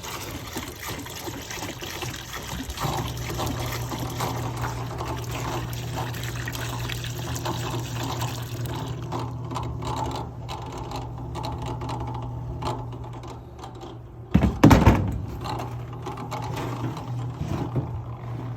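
Small parts-washer pump switching on about three seconds in and humming steadily, with cleaning fluid splashing and trickling. About halfway through, the splashing thins out as the pump runs short of fluid. A loud knock comes near the end.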